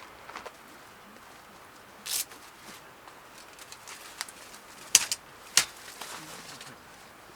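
A dove cooing in the background of a quiet mountain setting, with three short, sharp clacks: one about two seconds in and two louder ones close together past the middle.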